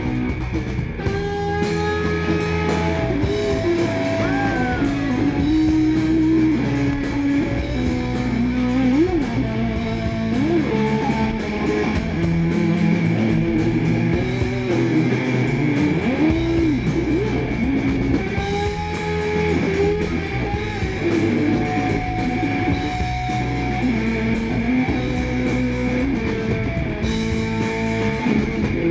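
Live rock band playing an instrumental passage: electric guitar notes bending up and down in pitch over bass and drums.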